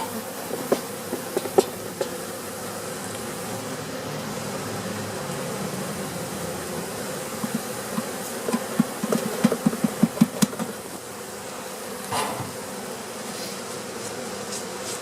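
Honey bee colony buzzing steadily around an open hive, with light knocks and clicks from the hive being worked, a quick run of them about nine to ten seconds in.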